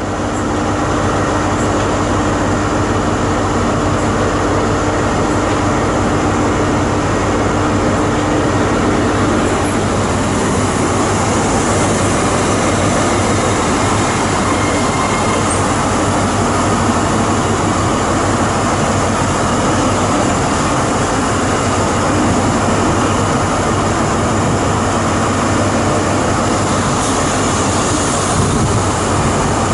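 Train running close by at a steady level, a continuous rumble and drone with a steady tone in it that stops about ten seconds in.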